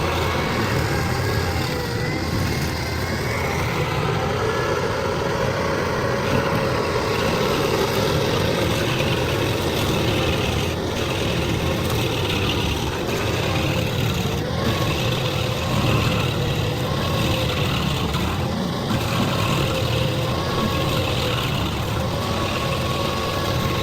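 Heavy machine's engine running steadily under load, with a faint wavering whine on top.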